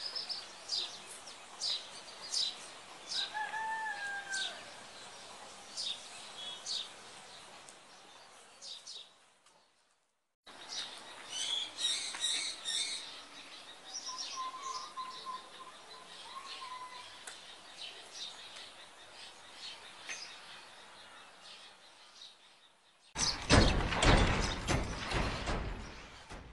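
Birds chirping: many short high chirps with a few longer whistled calls, broken by a gap of about a second around nine seconds in. In the last three seconds a much louder sound covers them.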